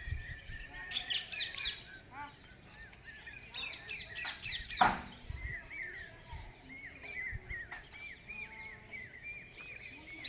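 Birds chirping: two quick bursts of rapid high chirps, then a run of short, evenly repeated call notes. A single sharp click just before the middle is the loudest sound.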